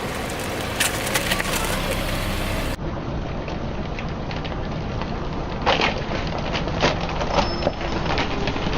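Crunchy objects crushed under a car's tyre: a run of crackling and splintering, with a few sharper cracks in the second half, over the low steady sound of the car.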